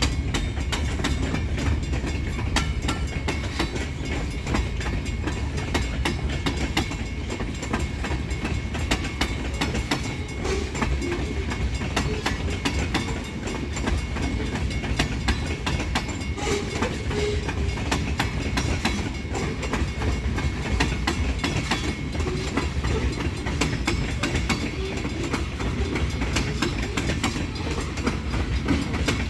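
Great Lakes Central train's cars rolling steadily past, with a low rumble and a constant stream of wheel clicks over the rail joints.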